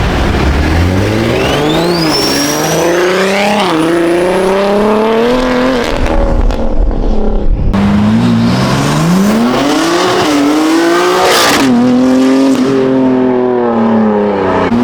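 Performance car engine revving hard in repeated climbs and drops, as if pulling through gears, with a high whine rising sharply about two seconds in. A brief loud burst about eleven seconds in.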